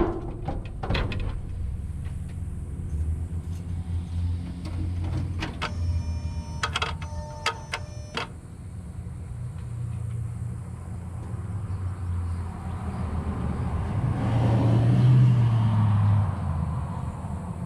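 Truck's electric fuel pump humming with the key on, pressurising newly fitted Teflon fuel lines for a leak check. A dashboard chime sounds a few times around the middle, and the hum swells louder near the end.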